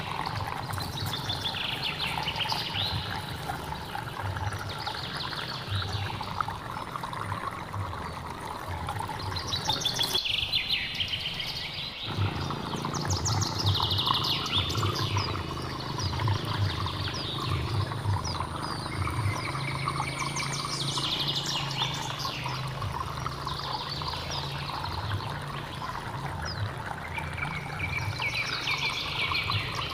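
A hill stream running steadily while a songbird sings short phrases of rapid notes every few seconds. The water's lower rush drops out briefly around ten seconds in, then returns.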